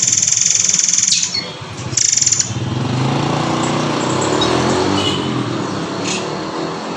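Recorded song of the murai air (murai kopi) played as masteran training audio: a rapid, high buzzing trill for about the first second and again briefly around two seconds in, then a lower, jumbled chatter.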